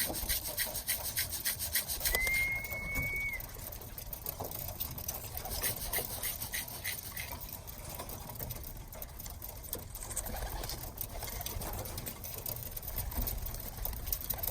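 Birmingham roller pigeons cooing around a loft trap, with a fast rhythmic scratching of about four strokes a second over the first half. A single steady whistle tone comes about two seconds in and lasts just over a second.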